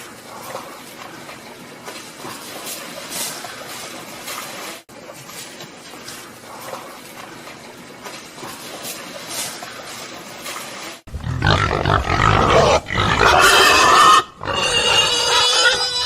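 Animal calls: a quieter rustling haze for most of the stretch, then loud pitched animal calls starting about eleven seconds in.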